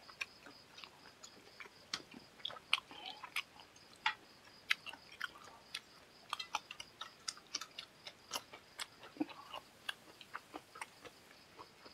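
Close-miked chewing of curry and rice: irregular wet clicks and smacks of a mouth eating.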